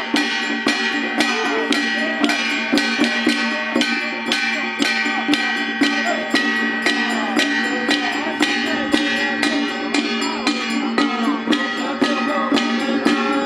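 Taiwanese temple procession music: a fast, even beat of struck percussion, with held pitched tones and a wavering melody over it.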